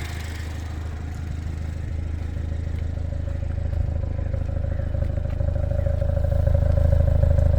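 Exhaust of a 2014 MINI Cooper S's turbocharged four-cylinder idling steadily during its cold-start warm-up, the exhaust valve closed as it is by default after starting. A steady low drone, with a thin higher tone joining about three seconds in, growing gradually louder.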